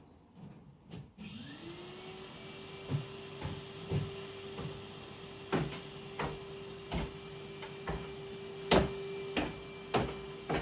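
Vacuum cleaner switched on about a second in, its motor rising in pitch and settling into a steady whine. A string of irregular knocks runs over the whine.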